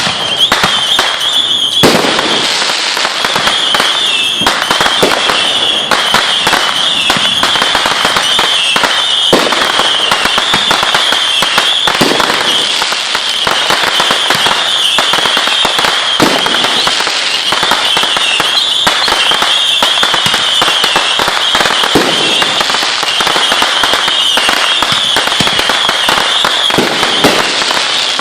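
Fireworks and firecrackers going off in a dense, continuous string of pops and crackles, with a few louder bangs, over a steady high wavering whine.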